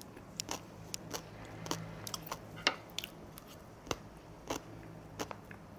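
A person chewing food close to the microphone: irregular short crunches and wet mouth clicks over a low steady hum.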